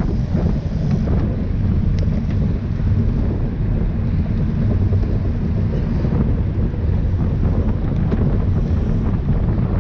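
Wind buffeting the microphone of a camera on a moving bike: a steady low rumble, with a few faint ticks.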